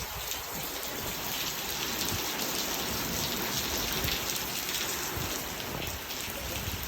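Rain falling steadily, with scattered sharper drop hits on a nearby surface.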